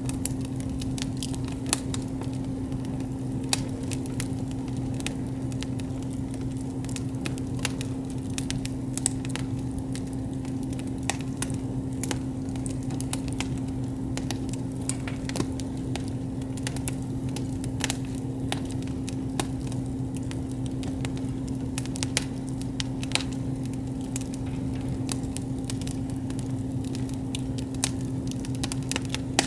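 Wood campfire crackling, with frequent sharp pops at irregular intervals over a steady low hum.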